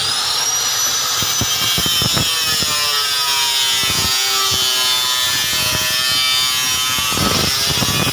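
Homemade coconut grater driven by the electric motor of a used water pump, running with a high steady whine. A rough rasping sound and scattered knocks run under the whine.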